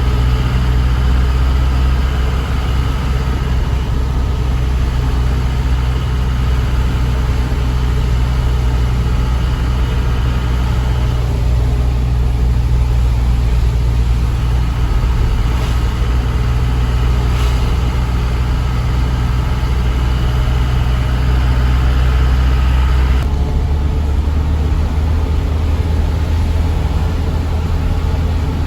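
Truck diesel engine running steadily under way, a loud low drone with road noise. Its tone changes about 23 seconds in, as the engine note shifts lower.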